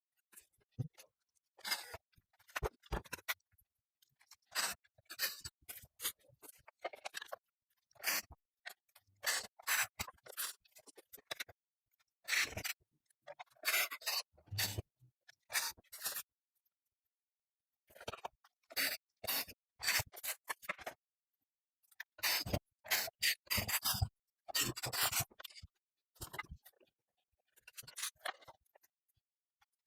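Irregular short bursts of scraping, rubbing and rustling as ceiling fan parts and packaging are handled during assembly, broken by a brief stretch of silence about two-thirds of the way through.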